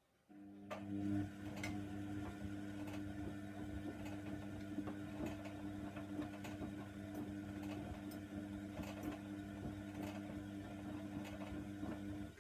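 Hoover Nextra washer dryer running for about twelve seconds: a steady mechanical hum with light irregular clicks and ticks, starting abruptly just after the start and cutting off abruptly near the end, between silent pauses in the cycle.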